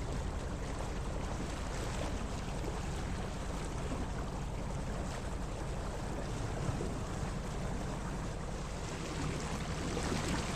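A sailboat under way: a steady low engine hum with water rushing along the hull and wind on the microphone.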